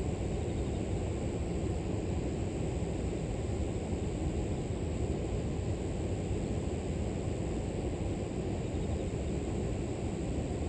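River water flowing steadily, a dense low rushing, with a thin, steady high drone of grass insects over it.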